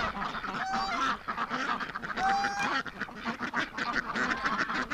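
A flock of domestic ducks and geese calling all at once, a steady din of quacking and chatter with short clear calls cutting through about a second and two seconds in. Much of the noise is female ducks calling to the drakes in courtship.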